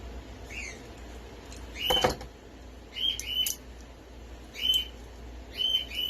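A bird calling nearby with short, sharp chirps, about six in all, the loudest about two seconds in.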